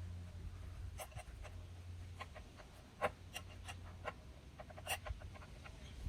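Scattered light clicks and scraping of small parts being handled during work on a gramophone motor board, over a faint low steady hum.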